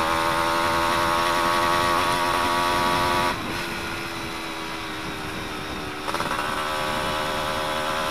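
Suzuki F1ZR two-stroke single-cylinder engine running loud through an exhaust with its baffle insert removed. The throttle eases off about a third of the way in and opens again near the end.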